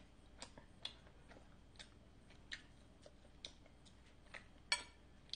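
Soft, wet mouth clicks of someone chewing sticky Korean rice cake close to the microphone, irregular, about one or two a second. Near the end come a couple of sharper clicks as a metal fork touches a polystyrene tray.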